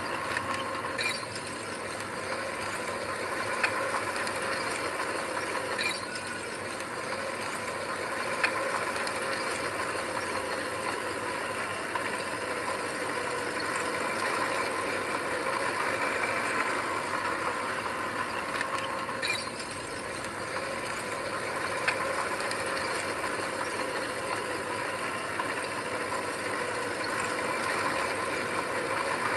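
Heavy earth-moving machinery running steadily, with a few short, sharp clanks scattered through.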